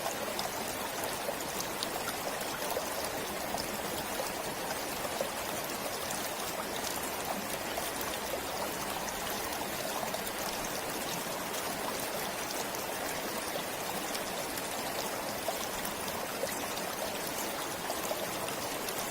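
Forest stream flowing and trickling steadily, an even rush of water with fine splashing.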